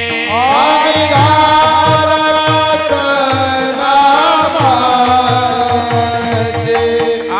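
Devotional kirtan singing: a voice slides up into a long, held melodic line over steady sustained accompaniment, while a hand drum beats a regular rhythm.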